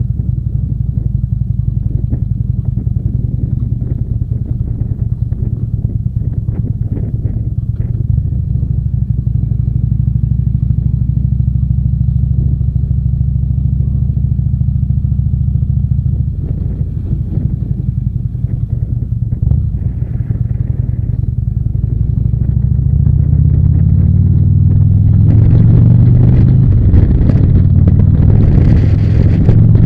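Harley-Davidson V-twin engine running steadily while the motorcycle is under way. Its note shifts after about 16 seconds and gets louder for the last few seconds.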